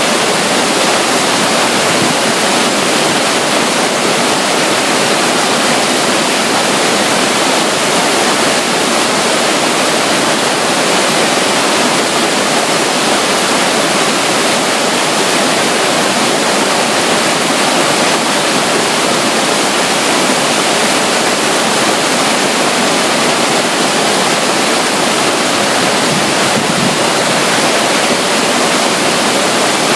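Steady, loud rush of flowing water from a small stream of water running beside a river near a waterfall.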